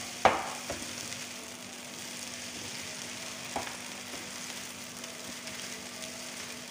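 Fried rice sizzling in a nonstick frying pan while it is stirred and turned with a spatula. The spatula knocks sharply against the pan just after the start, and more lightly about halfway through.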